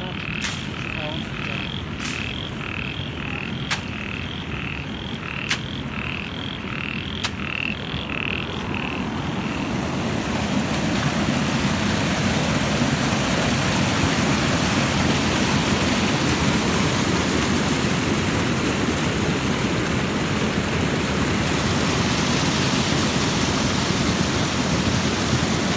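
Frogs croaking in a fast, even rhythm, with a sharp click every second or two. About nine seconds in, a loud steady rush of heavy rain swells up and drowns them out.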